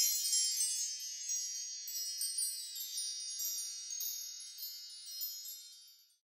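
Wind chimes ringing: many high tinkling tones sounding together, then slowly dying away and fading out near the end.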